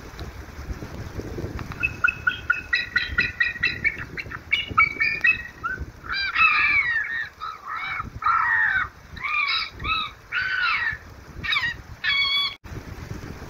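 Birds calling: a quick run of short, repeated honking calls, then longer calls that rise and fall in pitch, over a low steady rumble.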